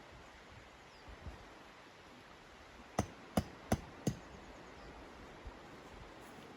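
Four sharp knocks in quick succession, about a third of a second apart, over a steady rushing noise.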